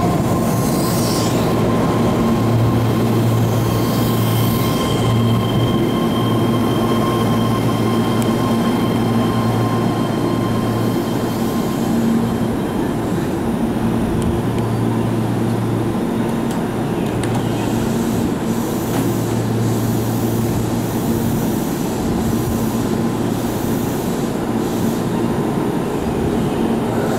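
Keihan electric commuter train running along the platform, a continuous rumble of wheels on rail with a few clicks. Thin high tones ring over it through roughly the first half.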